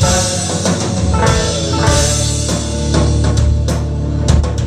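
Live band playing an instrumental passage between sung lines, with drums and acoustic guitar, banjo or other plucked strings over a sustained bass.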